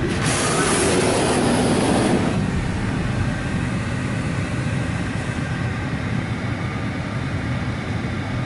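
Washworld Razor touchless car wash starting its cycle around the car, heard from inside the cabin: a loud hiss for about the first two seconds, then a steady low rumble.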